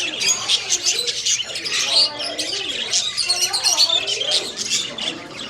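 Many caged parrots and parakeets chirping and chattering at once, a dense stream of short high chirps mixed with wavering squawk-like calls.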